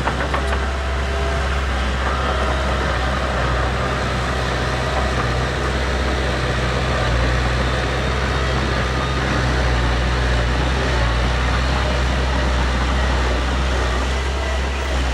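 Heavy earthmoving machine's diesel engine running steadily, a deep drone with a clattery edge that picks up near the start and end.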